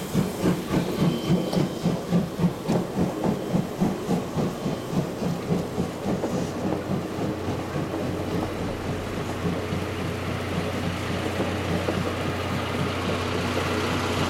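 Chichibu Railway C58 steam locomotive working hard, its exhaust chuffing about four beats a second and fading over the first half. A steady engine hum takes over and grows a little louder near the end.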